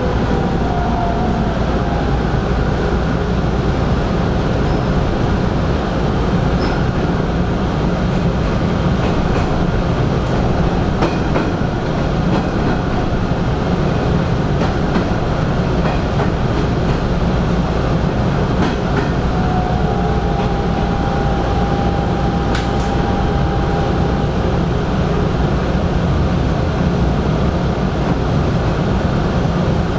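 Hanshin 5500-series electric train running: a steady, loud rumble with a few scattered clicks, and a steady high whine for a few seconds about twenty seconds in.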